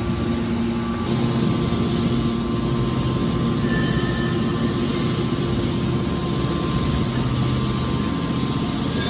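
Industrial machinery running steadily, a continuous mechanical hum with a few steady low tones under it.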